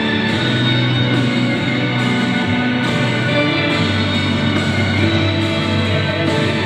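Instrumental interlude of a pop-rock backing track, guitar to the fore, with no singing.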